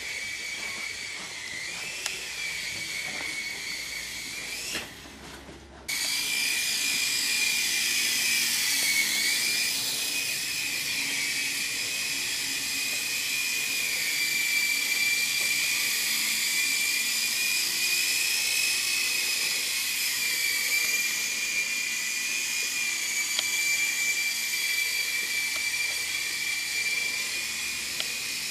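Small RC helicopter's motor and rotor giving a steady high whine that wavers a little in pitch as it flies. The sound dips briefly about five seconds in, then comes back louder.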